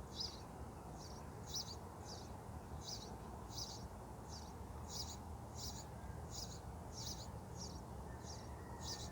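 Nestling birds begging from the nest, a steady series of short high-pitched chirps about one and a half a second.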